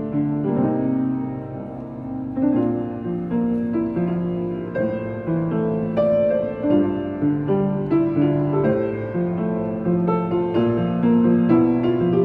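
Solo piano played by hand: a melody over sustained chords, notes struck one after another with the low chords ringing under them, growing a little louder near the end.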